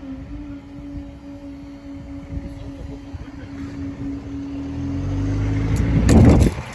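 A train approaching and passing the level crossing: a low rumble that grows louder, is loudest about six seconds in, then drops away suddenly. A single steady tone is held over it for about six seconds.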